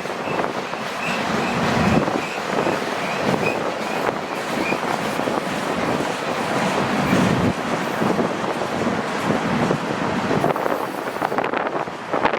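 Freight train rolling past close by: steady noise of the cars on the rails.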